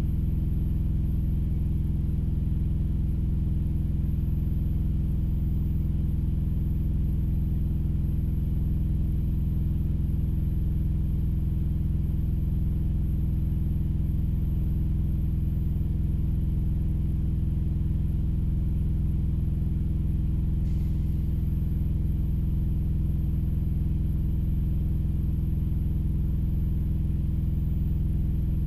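Steady low drone of an idling engine, even and unchanging, heard from inside a vehicle cab.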